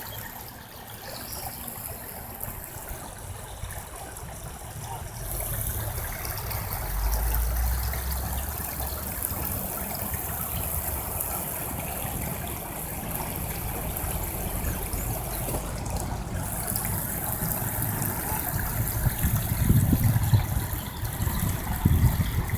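Steady rush of running stream water, with a low rumble underneath that grows louder and more uneven near the end.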